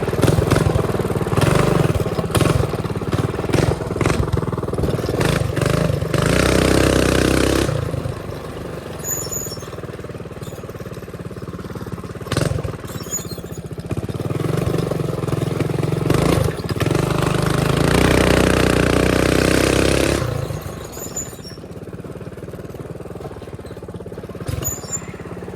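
Mini bike engine running under throttle while being ridden, in two long stretches at high revs separated by quieter spells at lower revs.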